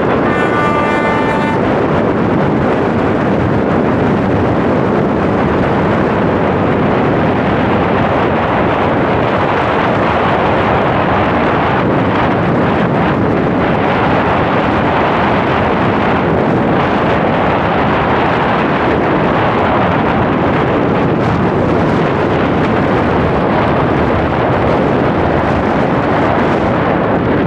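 Moving train running with a loud, steady rushing rumble, heavy with wind noise on the microphone. A short horn blast sounds at the start for about a second and a half.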